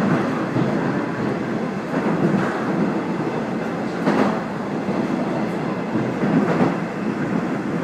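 Passenger train running along the line, heard from inside the car: a steady rumble with a few wheel clacks over rail joints.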